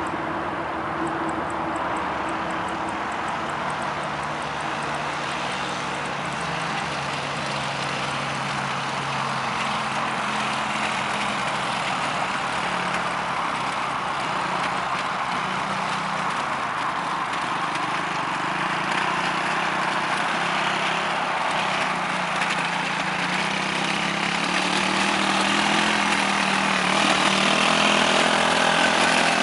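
Quad bike engine running steadily, its hum wavering a little in pitch and growing slightly louder near the end.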